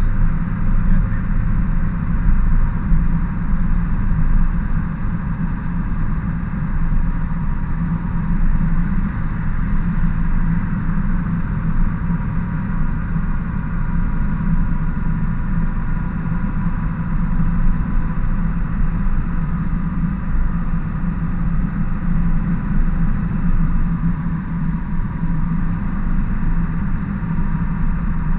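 Ford F-350 work truck driving, its engine and road noise a steady low rumble heard inside the cab.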